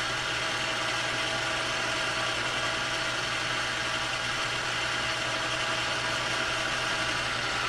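Metal lathe running steadily, its motor and spindle giving an even hum with a constant higher tone over it.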